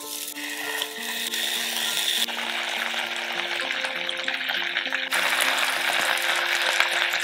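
Potato slices and sliced garlic sizzling in oil in a frying pan, the hiss growing louder as the slices are laid in. Soft background music with held notes plays underneath.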